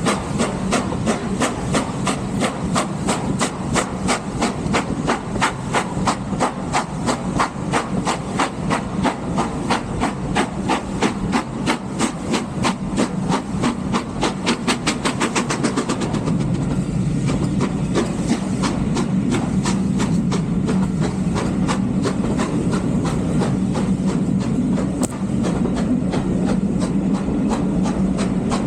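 Steam train running, its locomotive's exhaust beating in rapid, even knocks that quicken steadily. About sixteen seconds in the beats stop abruptly, leaving a steady rumble and hiss as the train rolls on.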